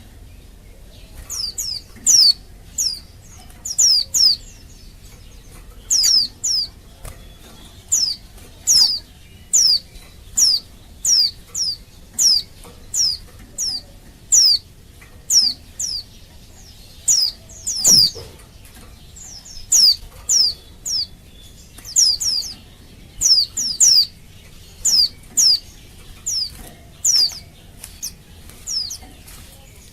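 Female white-eye (pleci) calling: short, high, downward-slurred call notes repeated over and over, often in quick pairs, about one to two a second. Keepers take this as the call of a female in breeding condition. A single dull knock sounds about halfway through.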